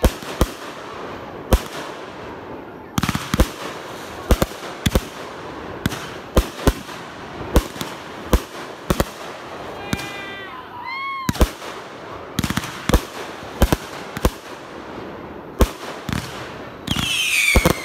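Consumer fireworks going off: a steady run of sharp bangs, roughly one every half second to a second, with crackling between them. Whistles rise and fall about ten seconds in, and a louder burst of whistles comes near the end.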